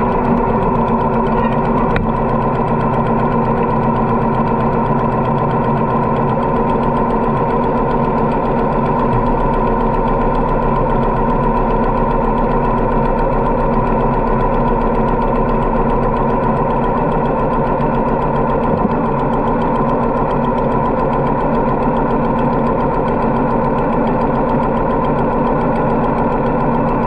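Harley-Davidson motorcycle V-twin engine running steadily at an even pitch.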